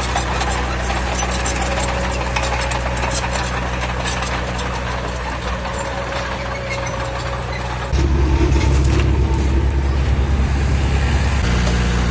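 Diesel engine of heavy earthmoving machinery running steadily. About eight seconds in it picks up sharply and gets louder, as under throttle or load.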